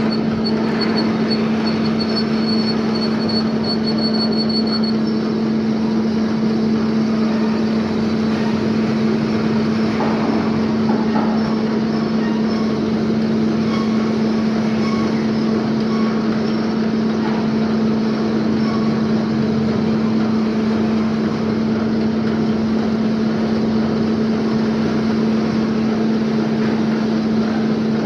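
Lathe machine running steadily with a strong, even hum, taking a cross cut with the cutting tool fed across the workpiece.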